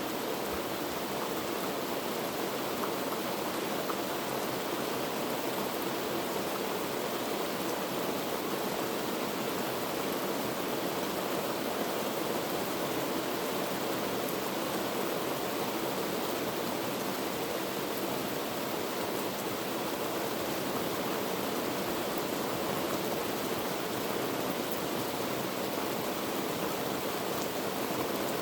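Heavy rain falling steadily, a constant even hiss without separate drops or changes.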